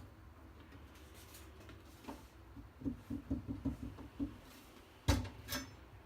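Handling knocks while a gas stove is being taken apart: a quick run of light taps, then two sharp knocks about half a second apart near the end.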